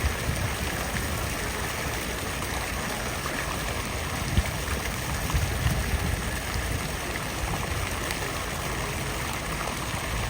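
Steady rushing noise with a few brief soft knocks.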